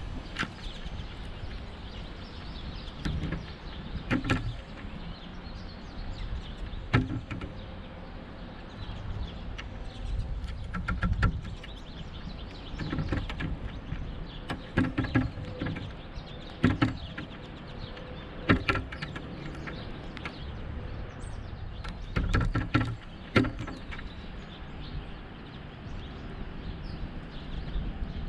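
Pileated woodpecker pecking at a suet feeder: irregular knocks and taps, some in quick clusters, over a low rumble.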